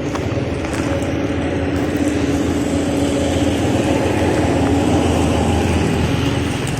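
A motor vehicle engine running steadily, a little louder from about a second in.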